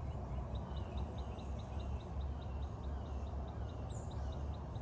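A bird calling in an even series of short, high chirps, about five a second, over a steady low rumble.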